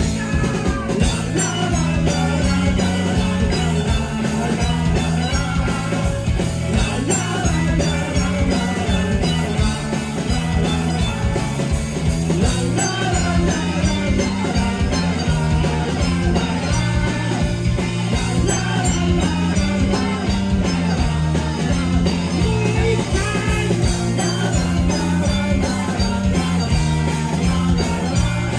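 Rock band playing live, loud and continuous, with a steady drum beat under bass and guitar.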